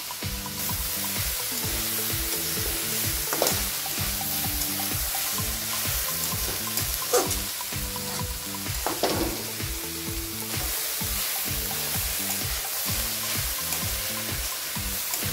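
Radish greens and sliced radish sizzling steadily as they are stir-fried in a metal kadai, with a spatula scraping across the pan three times, the loudest scrape about seven seconds in.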